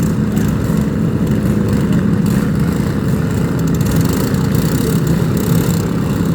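Engines of several small vehicles, likely riding mowers, running in a loud steady drone with no letup.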